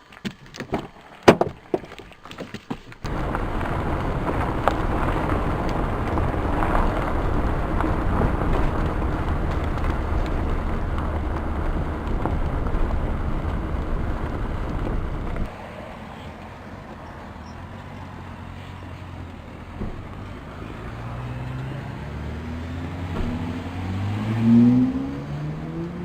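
A few knocks, then a vehicle driving, its engine and road noise steady and loud. After an abrupt drop in level, the engine pitch rises again and again as it accelerates through the gears.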